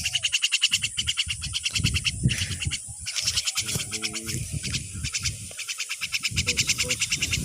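Chorus of calling insects or frogs in the surroundings: rapid trains of high, evenly spaced pulses at about ten a second, pausing briefly now and then, with one short pitched call about four seconds in. Low rustling and handling noise sits underneath.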